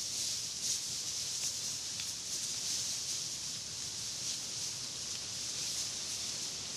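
Steady, shrill chorus of insects, a continuous high hiss that pulses slightly.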